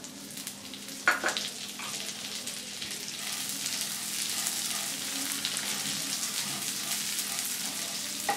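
Vermicelli sizzling as it fries in hot ghee in a nonstick pan, being toasted until light brown while a wooden spatula stirs it. There is a sharp knock about a second in, and the sizzle grows louder after about three seconds.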